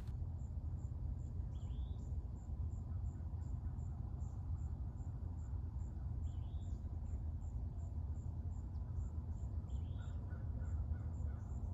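Nature ambience: crickets chirping in an even rhythm, with a short bird call three times about four seconds apart, over a steady low rumble.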